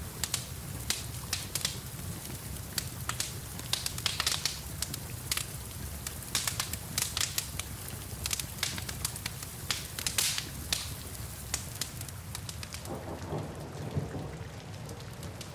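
Wood fire crackling with frequent sharp pops over a steady rumble of rain. Near the end the pops thin out and a fuller rushing sound comes in.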